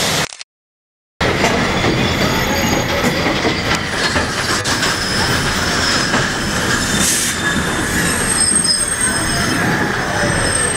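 Passenger train rolling along the track: a steady rumble and rattle of the cars, with thin, high wheel squeal over it. The sound cuts out for under a second right at the start.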